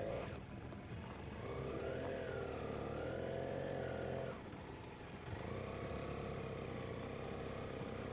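BMW adventure motorcycle's engine running under way on a gravel track, its pitch rising as it accelerates over the first two seconds. It eases off about four and a half seconds in, then pulls again and holds steady.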